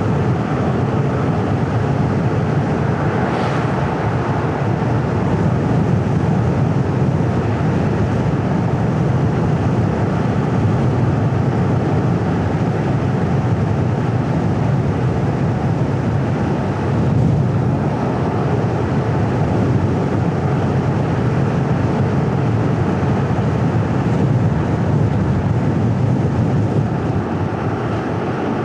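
Steady rumble of a car driving on a paved road: tyre and engine noise, with short brief swells about three seconds in and again near the middle.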